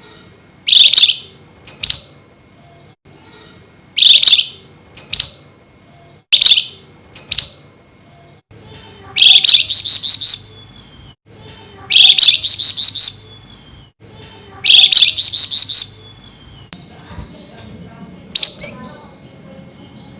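Flamboyan songbird calling loudly in sharp, harsh bursts: single sharp calls about a second apart, then longer rapid stuttering rattles, the excited 'nyerecet' calling that keepers play to provoke other birds.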